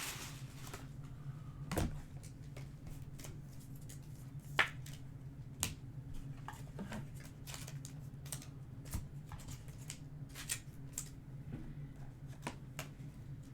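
Trading cards handled and flicked through by hand: soft irregular clicks and taps of card edges, with a steady low hum underneath.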